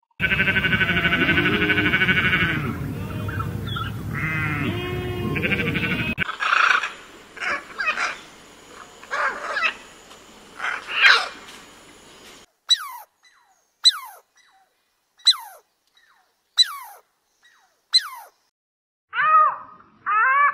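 A run of animal calls: a loud, warbling, bleat-like call for about the first six seconds, then shrill rainbow lorikeet screeches, then five short falling whistles evenly spaced, and high chattering calls near the end.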